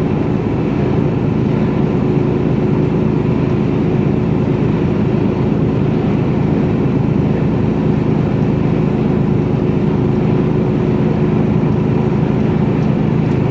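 Mercedes-Benz Actros truck heard from inside the cab at motorway cruising speed: a steady diesel engine drone and road noise, with a steady low hum running through it.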